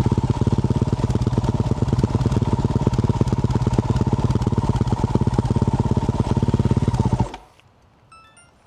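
Yamaha YZ450F single-cylinder four-stroke dirt bike with a Yoshimura RS-12 exhaust running steadily at constant revs, then shut off abruptly about seven seconds in.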